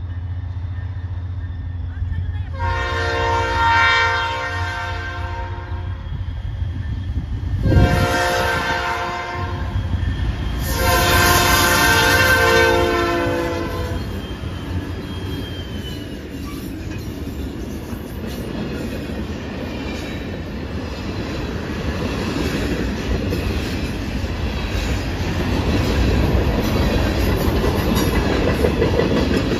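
Five EMD SD40-3 diesel locomotives running under power as they approach, the lead unit sounding its horn in three blasts: long, shorter, long. The units then pass close by, and a string of covered grain hopper cars follows with steady wheel rumble and clickety-clack on the rails, growing louder near the end.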